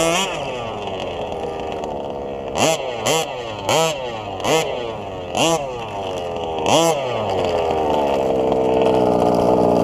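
Small two-stroke petrol engine of an FG 1/5-scale RC drag car revved in about seven quick throttle blips, each rising sharply in pitch and dropping back. Near the end it settles into a steady, faster run.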